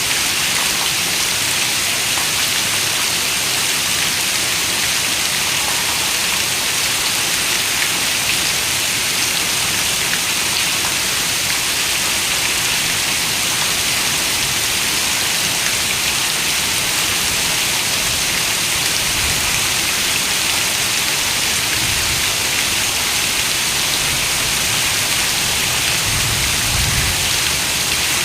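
Steady rain falling, a dense even hiss of countless drops with no pauses. A few soft low rumbles come in during the second half.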